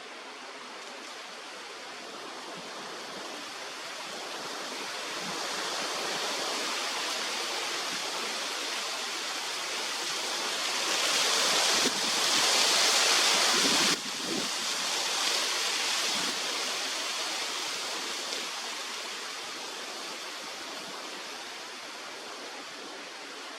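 A gust of wind, a rushing hiss that swells over several seconds, peaks about halfway through, and dies away again.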